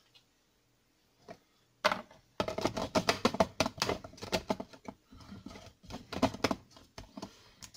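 Chocolate sandwich cookies dropped by hand into the plastic bowl of a small food processor: a quick, irregular run of light clatters and knocks starting about two seconds in.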